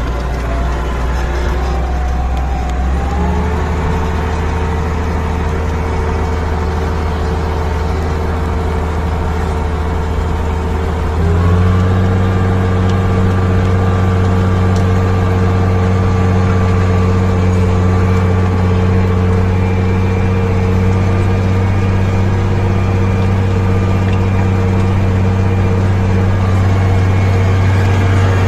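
Fendt 311 tractor engine running steadily under load while ploughing. Its note steps up twice, about three seconds in and again about eleven seconds in, then holds steady.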